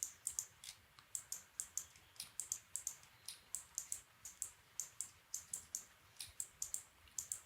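Light clicking at a computer, several clicks a second at an uneven pace.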